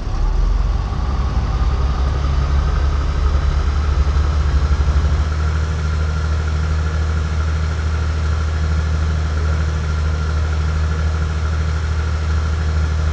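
Airliner engine noise heard inside the cabin: a loud, steady low drone with a thin whine that rises slowly in pitch, and it swells sharply right at the start.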